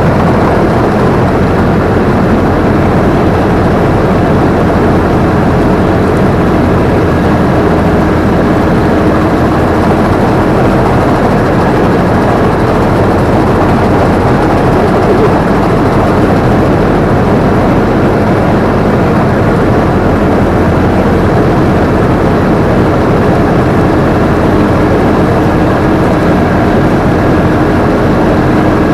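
Combine harvester running steadily, heard from the operator's seat: a loud, even machine din with a faint steady hum, without change or pause.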